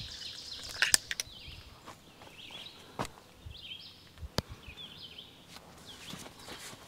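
Small birds chirping and singing in the background, short repeated chirps, with a few sharp clicks or knocks, the clearest about one, three and four and a half seconds in.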